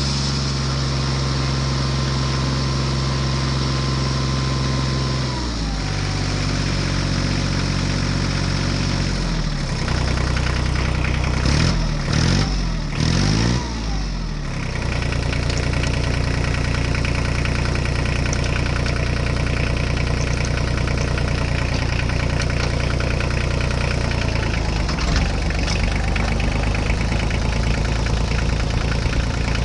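Vehicle engine running at a steady idle, its pitch stepping down a little about five and nine seconds in. From about eleven to fifteen seconds the revs rise and fall several times, and then it settles back to a steady idle.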